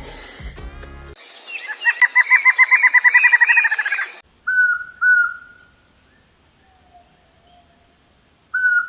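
Bird calls: a fast rattling run of short pitched notes, about ten a second, lasting roughly three seconds. A pause follows, then two short clear whistled notes, with the same pair again near the end.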